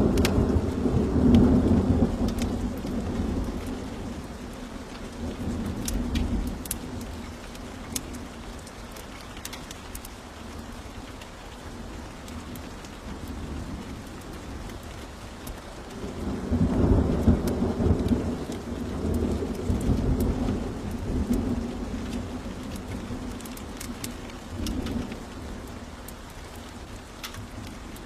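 Steady rain with two long rolls of thunder: one at the start that fades over a few seconds, and another beginning about sixteen seconds in. Scattered sharp crackles from a wood fire run through it.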